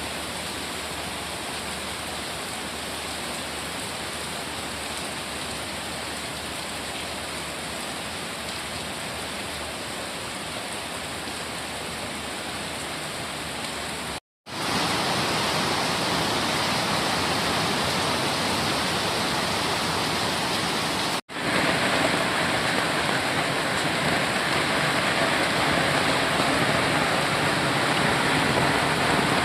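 Heavy rain falling steadily, an even hiss. The sound cuts out for a moment twice, about halfway through and again a few seconds later, and comes back louder each time.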